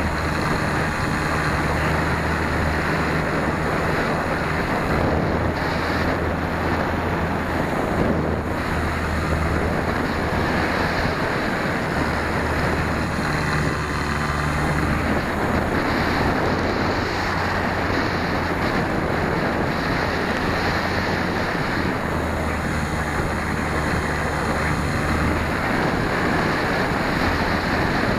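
Steady wind rush over the microphone of a tail-mounted 808 #16 keychain camera on a flying RC Super Cub, with the plane's brushless motor and propeller running underneath; low rumbles swell and fade every few seconds.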